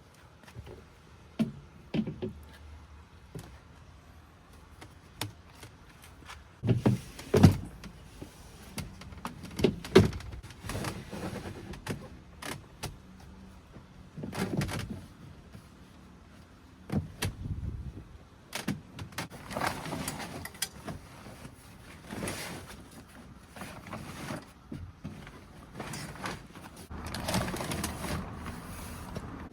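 Irregular knocks, thumps and rustling of objects being handled, with two heavy thuds about 7 and 10 seconds in.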